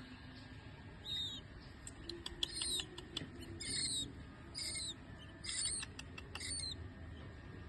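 Owl chicks calling: short, high-pitched calls that fall in pitch, repeated about once a second, with a few sharp clicks in between.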